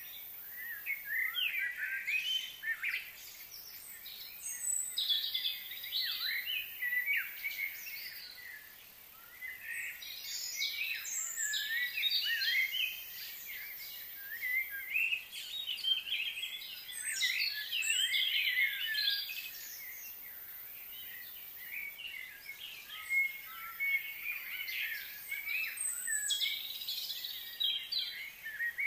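Birds chirping and singing, many quick high calls and trills coming in bouts of a few seconds with short pauses between them.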